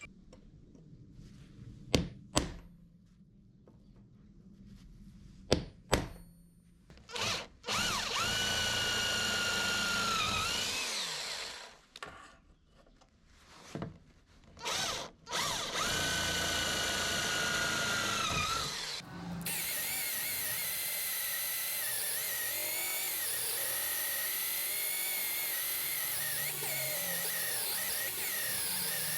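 Electric drill boring into steel plate in two runs of a few seconds each, its whine dipping as it bites, after two sharp clicks. About two-thirds of the way in, a steadier, noisier power-tool run begins and keeps going.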